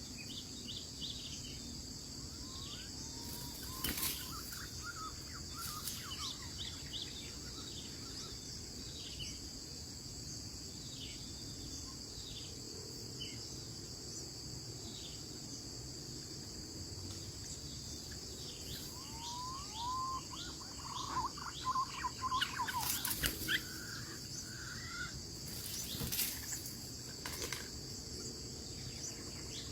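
Steady high-pitched drone of insects, with many short falling chirps over it. Birds call in short chattering phrases about three seconds in and again for several seconds past the middle, with a few sharp clicks.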